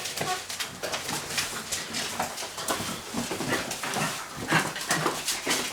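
Labrador puppies at play, giving a few short whines and yips over a busy patter of small clicks and scuffles.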